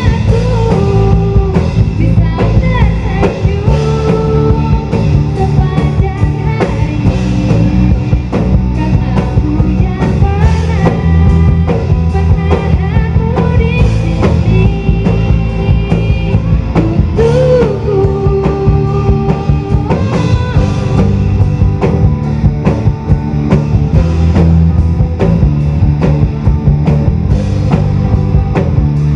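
Loud rock music from a band: a drum kit and bass under a sliding, melodic lead line.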